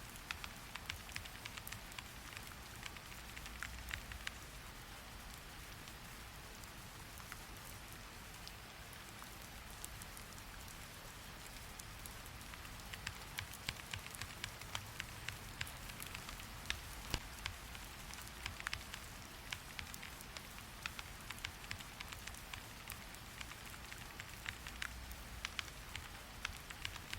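Steady rain hiss with irregular sharp clicks of typing on a keyboard, sparse for a few seconds and coming in quicker runs in the second half.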